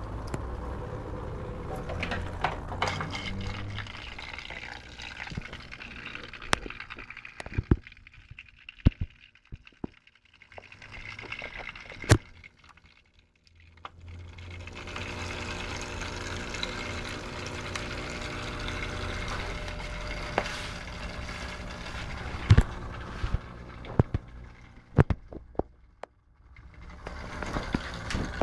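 Atman HF-0100 hang-on-back waterfall aquarium filter, water spilling steadily from its outlet into the tank, with scattered sharp clicks and knocks. The water sound drops away for several seconds in the middle and again briefly near the end.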